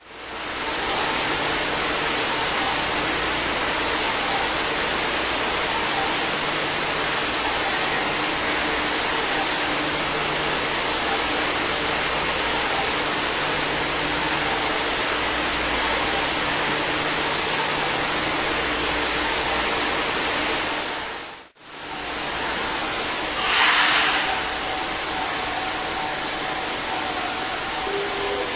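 Steady hiss and low hum of a subway train and station, running evenly. After a break comes a short, loud hiss of air, then a steady mid-pitched tone.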